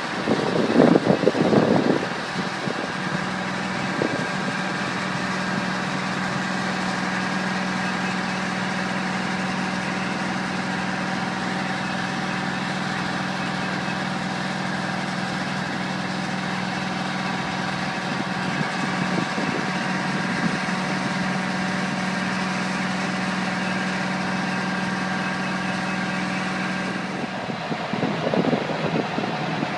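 Diesel engine of a 1989 Spartan fire truck, a Detroit Diesel Series 92 two-stroke, running steadily at idle, with a low steady hum underneath from about three seconds in until near the end. Brief louder rumbling comes in the first two seconds and again near the end.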